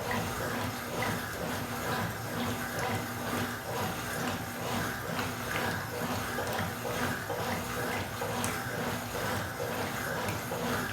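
Water running steadily into a washing machine tub.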